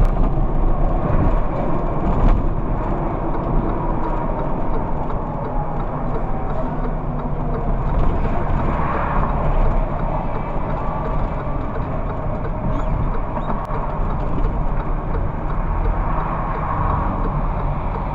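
Steady road and engine noise of a car driving, heard from inside the cabin, with a broad swell about halfway through.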